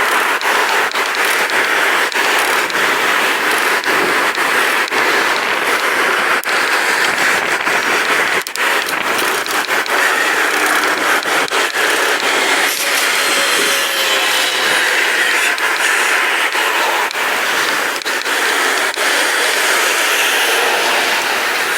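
Steady rushing noise of a pedal bicycle being ridden, with frequent small clicks and rattles.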